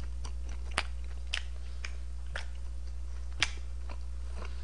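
Close-miked chewing of sauce-soaked sweet-and-sour pork (tangsuyuk): scattered soft clicks and smacks of the mouth, over a steady low electrical hum.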